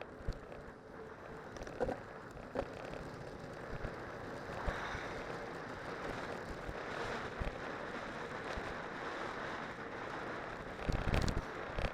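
Steady rushing noise of a cyclocross bike descending on studded tyres, with a few small clicks and knocks, and wind buffeting the microphone in a louder low rumble near the end.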